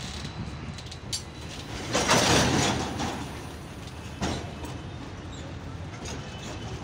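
Covered goods wagons of a freight train rolling slowly past, their wheels knocking now and then over the rail joints. About two seconds in, a louder rushing noise lasts about a second.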